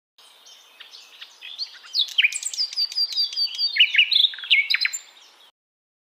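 Bird song and chirping: a quick run of high, repeated notes with downward slurs, growing louder after about two seconds and breaking off abruptly near the end.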